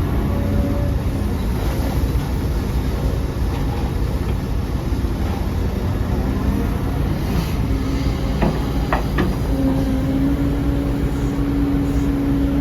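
Heavy diesel earthmoving machinery running steadily with a deep rumble. There are a few sharp metallic clanks about two-thirds of the way through, and then a steady whine that begins soon after.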